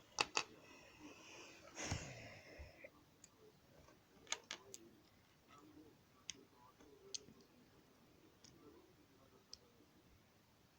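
Lego plastic pieces clicking as they are handled and snapped together. The sharp clicks come singly or in quick pairs, spread through, with a short soft rustle about two seconds in.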